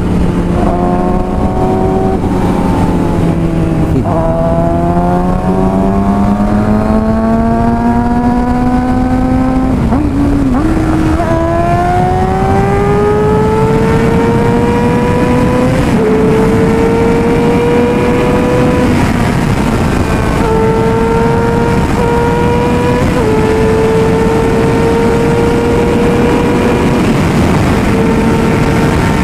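Suzuki GSX-R600 inline-four engine accelerating at highway speed, its pitch climbing and dropping at each upshift, twice, then holding a steady high cruise. Heavy wind rush on the microphone runs underneath.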